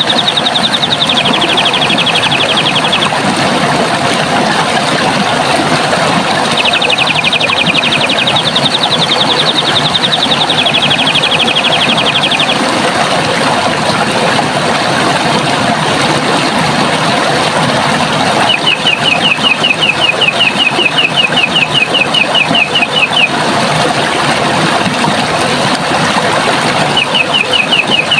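Steady rush of running water, with a bird repeatedly singing long trills of fast, evenly repeated high notes, each trill lasting a few seconds.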